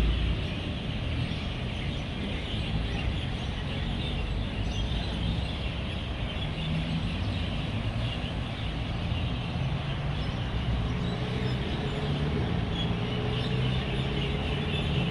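Dense, steady chorus of many roosting birds chirping, over the low rumble of passing road traffic, with engine hum swelling now and then as vehicles go by.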